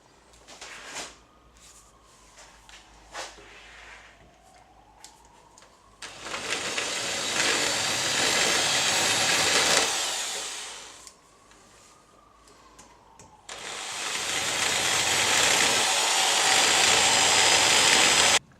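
Angle grinder grinding metal in two long spells, the second cutting off abruptly near the end. Between them are quieter clicks and a faint whine that rises and falls.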